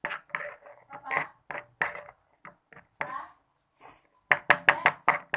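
Glue and liquid soap slime mixture being stirred in a container: irregular wet, sticky squelches and clicks of the stirrer, with a quick run of louder sharp clicks near the end. The mixture is starting to clump.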